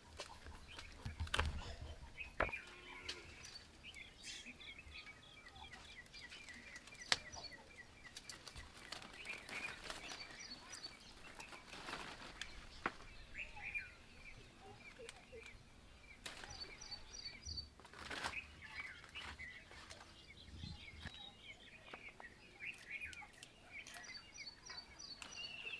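Small wild birds chirping and calling, with repeated short trilled series of high chirps. Scattered sharp clicks and light rustles sound over them.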